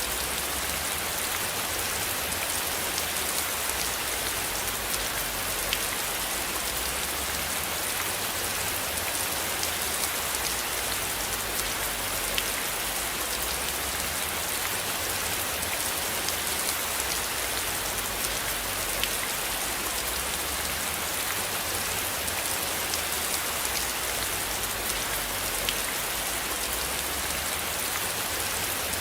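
Steady rain, an even hiss with scattered small drop ticks, over a low rumble.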